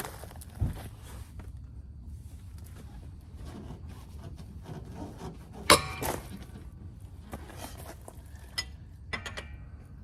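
Scattered knocks and clinks of tools and parts being handled during car wheel and brake work: a low thump early, one loud sharp clack about halfway through, and a few lighter clicks near the end.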